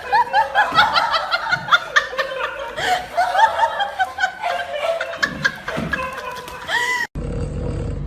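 Laughter in quick, high-pitched bursts. About seven seconds in it cuts off suddenly, leaving a steady low hum.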